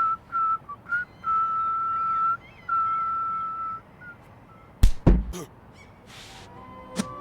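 A high whistle held at one pitch, in a few short notes and then two long ones, followed by two sharp thuds and a brief hiss.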